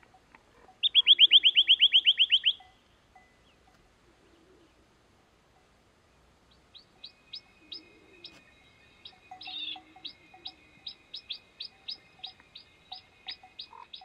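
Songbird calls: a loud, rapid trill of about fifteen notes lasting under two seconds, then, a few seconds later, a quieter run of short upslurred notes, about three a second.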